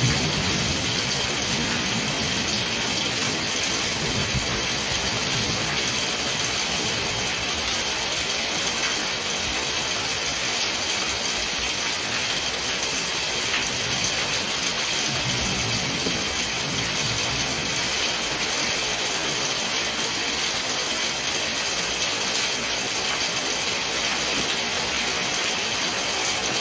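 Heavy rain pouring down steadily, a dense, even hiss with no thunder or wind gusts.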